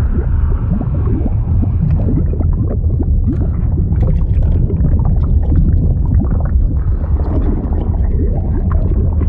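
A bubbling, gurgling liquid sound effect: a deep, steady rumble with many short, rising gurgles of bubbles throughout.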